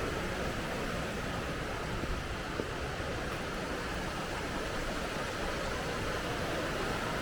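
Rushing mountain river water, a steady even noise, with a couple of faint clicks about two seconds in.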